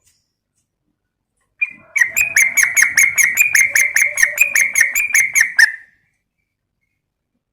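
Yellow-vented bulbul (trucukan) calling: one short note, then a fast, even run of about twenty chattering notes lasting nearly four seconds, which stops abruptly. It is a recorded lure call, billed as a female calling a male.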